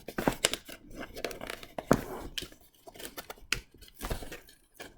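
Cardboard comic book blind box being opened by hand: irregular tearing, scraping and clicking of cardboard and packaging.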